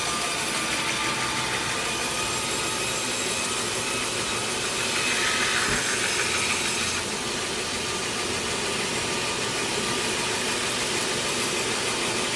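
Sawmill saw and its machinery running steadily as teak wood is sawn, with a brief louder stretch of higher-pitched cutting noise about five seconds in.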